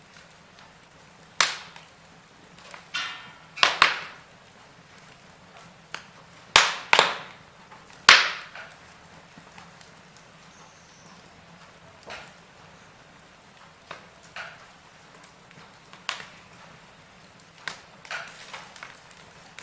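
Wood fire crackling in a fireplace: irregular sharp pops and cracks over a faint hiss, with a cluster of louder cracks about six to eight seconds in.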